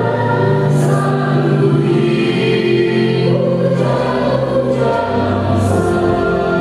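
A choir singing in long, held chords.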